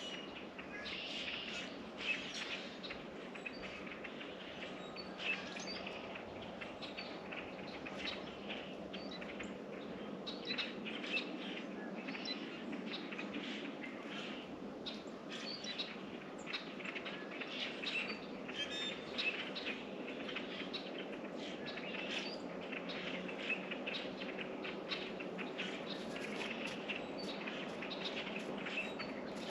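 Small songbirds chirping and calling in many short, scattered notes, with frequent small ticks and flutters mixed in, over a steady low background hum.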